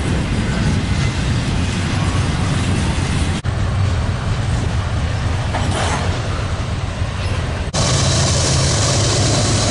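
Freight train cars rolling past on the rails, a steady wheel-and-rail noise, cut abruptly twice. About eight seconds in it changes to Norfolk Southern diesel locomotives passing, louder, with a steady low engine drone.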